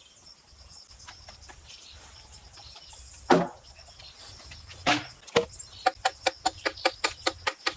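A hand tool striking: a few separate knocks, then a quick, even run of taps about four a second, like a hammer working a chisel. A faint, steady high whine of insects sits behind it.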